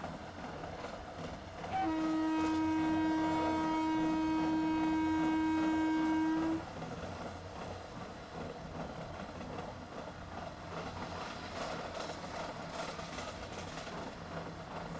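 Train horn sounding one long steady blast of about four and a half seconds, starting about two seconds in and cutting off sharply, over steady background noise.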